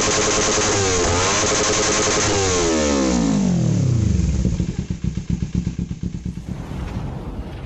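Kawasaki Ninja 300's parallel-twin engine running hard through an Akrapovic slip-on exhaust, with a brief dip in revs about a second in. Around three seconds in the pitch falls steeply, and the sound then fades away unevenly.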